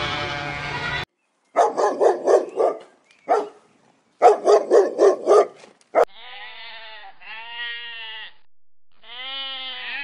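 Goats bleating together in a pen cut off about a second in. Two runs of quick pulsed animal calls follow, about five pulses a second. From about six seconds in, a sheep bleats in three long, arching calls.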